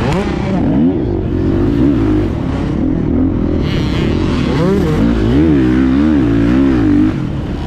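Four-stroke single-cylinder engine of a 2024 Beta 430 Race Edition dirt bike, ridden on a trail, revving up and down as the throttle is worked, with a run of quick rev swings near the end.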